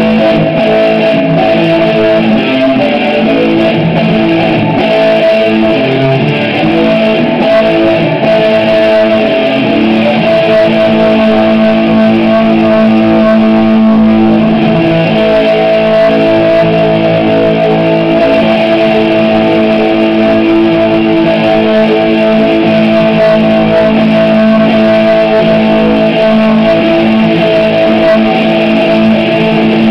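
Electric guitar played loudly through a freshly repaired amplifier as a test of the amp, with one steady high tone sustained throughout.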